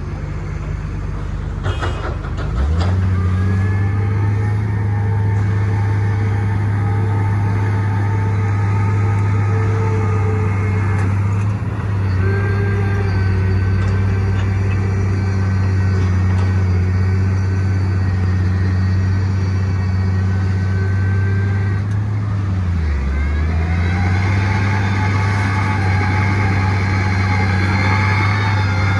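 Heavy construction machine's diesel engine running under load, picking up revs about two and a half seconds in. It holds steady with a higher whine over it, sags briefly near the end and comes back up.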